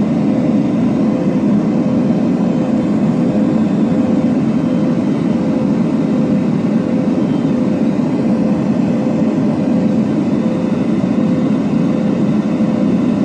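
Steady, unchanging engine drone: a loud low rumble with a constant hum running through it.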